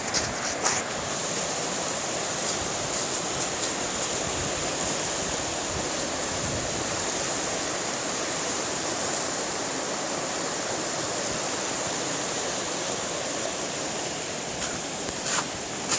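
River water flowing, a steady rushing noise that hardly changes, with a few brief knocks or gusts near the start and near the end.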